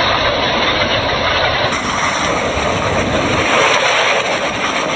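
Steady rushing noise of a waterfall pouring.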